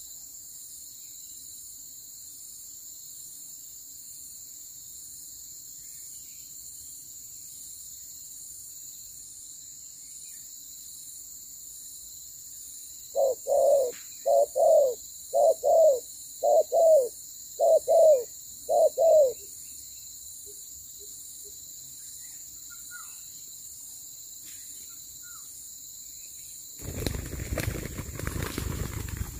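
Spotted dove cooing: a run of about a dozen short, low coos in pairs over some six seconds. Near the end a loud burst of rustling, scuffling noise.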